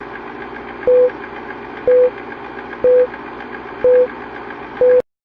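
Bomb-timer countdown sound effect: five short electronic beeps at one pitch, about a second apart, over a steady hiss with a faint fast ticking. It cuts off suddenly near the end.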